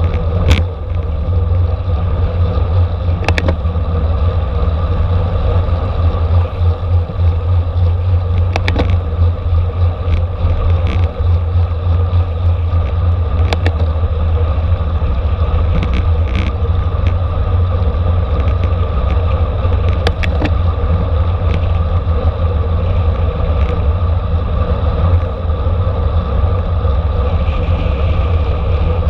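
Wind rushing over the microphone of a bicycle racer's onboard camera, together with the rumble of tyres on the road at race speed. A few sharp clicks are scattered through it.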